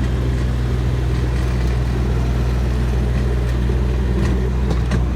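Tractor engine running with a steady, loud drone.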